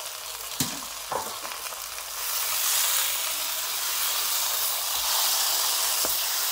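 Chicken and potato pieces sizzling in a nonstick wok under a freshly added paste of blended roasted coconut and spices. Two short spatula scrapes come about a second in, and the sizzle grows louder about two seconds in as the paste is stirred through.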